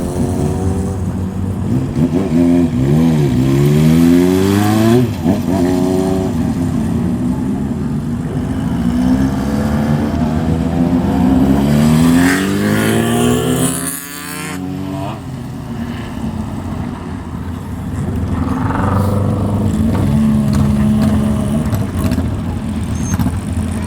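Motorcycles riding off one after another, each engine revving up with a rising pitch as it passes, several times over.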